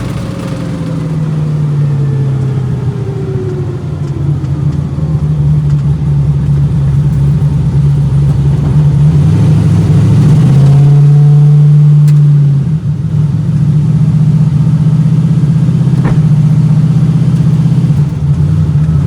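Twin-turbo LS 5.3 V8 in a Foxbody Mustang running at steady revs, louder for a couple of seconds past the middle, then settling back to an even note.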